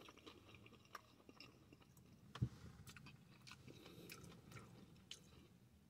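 Faint chewing of a mouthful of fried chicken sandwich: soft scattered mouth clicks and crunches, one a little louder about two and a half seconds in.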